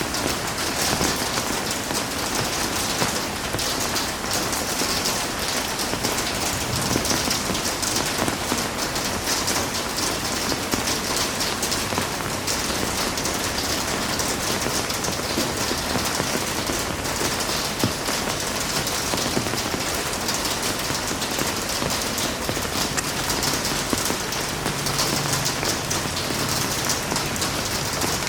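Heavy rain falling steadily, an even dense hiss of drops on a surface.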